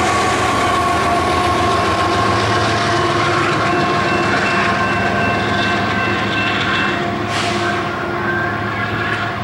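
Union Pacific intermodal freight train rolling away after passing, a continuous rumble with a low rhythmic clatter and steady whining tones held over it, easing off slightly near the end.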